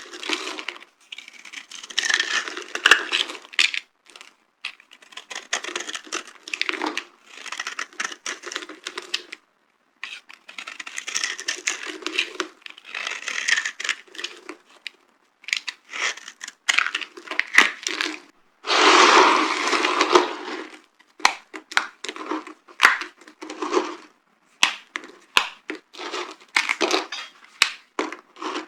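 Dry soap being crushed and crumbled, crunching and crackling in bursts with short pauses between them. There is one longer, louder crunch about two-thirds of the way through, then a run of quick sharp cracks near the end.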